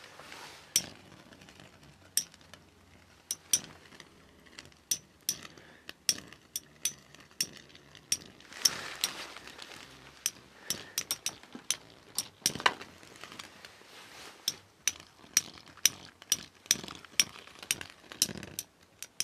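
Two spinning metal Beyblade tops clashing against each other: sharp, irregular metallic clicks and clinks that come closer together toward the end.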